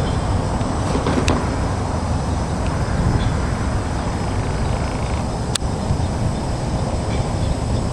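Wind buffeting an outdoor microphone: a steady low rumble, with two sharp clicks, one about a second in and one a little past the middle.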